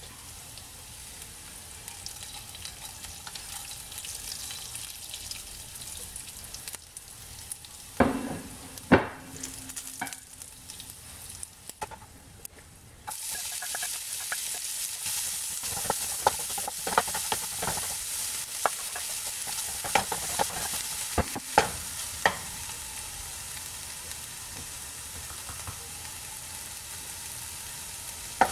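Oil and whole spices sizzling quietly in a non-stick frying pan, with a couple of knocks about a third of the way in. Just before halfway the sizzle suddenly gets louder as chopped onions, ginger and garlic go into the hot oil. A wooden spatula then stirs them, tapping and scraping the pan.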